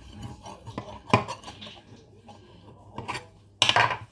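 A metal utensil scraping and clinking against the rim of a pie dish as excess pastry is trimmed off the edge, with a sharp click about a second in and a louder scrape near the end.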